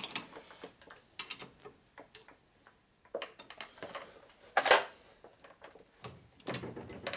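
Metal tools and lathe parts clinking and clanking while the lathe's compound rest is being reset to a new angle, with one louder clank about four and a half seconds in.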